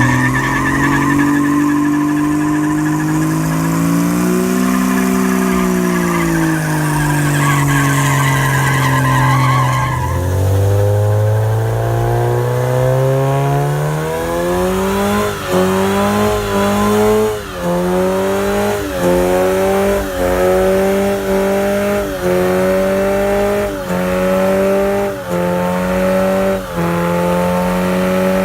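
A car engine held at high revs, its pitch wavering, falls sharply about ten seconds in, then climbs and cuts out briefly about every second and a half, rev after rev.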